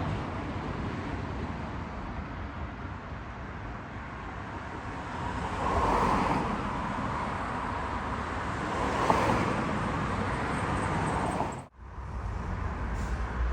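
Road traffic: vehicles passing by, one swelling loudest about halfway through and another a few seconds later. The sound cuts out for an instant near the end.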